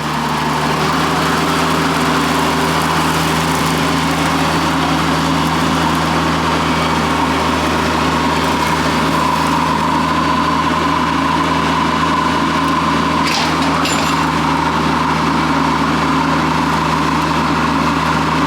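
Tractor engine running steadily at a constant speed, with a steady low hum and no change in pitch.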